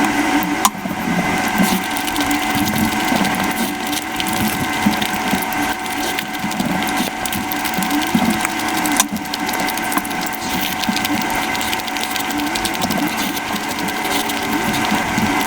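Mukbang eating sounds sped up five times: chewing and mouth noises over biryani and curry run together into a continuous fast clicking chatter.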